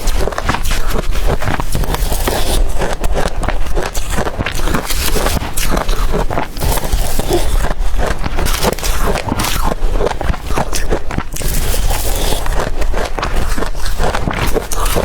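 Blender-crushed ice being bitten and chewed close to the microphone: a dense, continuous run of crackling crunches.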